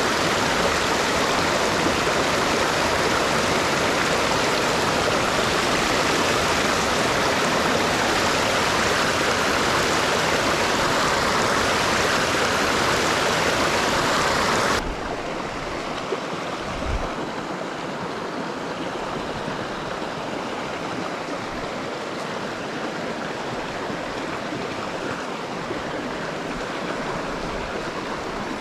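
Rushing water of a small mountain stream, a steady wash. About halfway through it drops suddenly quieter and duller, as at a change of shot, with a faint low thump a couple of seconds later.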